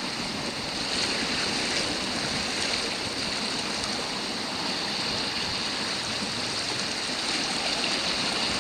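Steady rushing wash of sea surf on a rocky shore.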